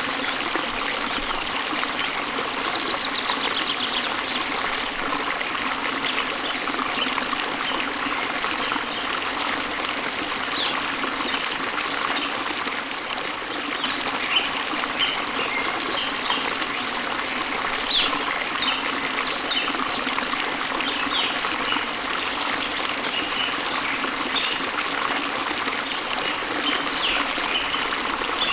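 Steady rush of water from a waterfall, with short, high bird chirps coming in over it, more often in the second half.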